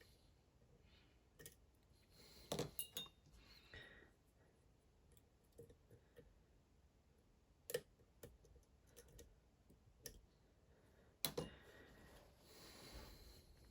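Faint metallic clicks and light scraping of a lock pick working the pins inside a Dom IX Twinstar half-euro cylinder, with a few sharper clicks scattered through.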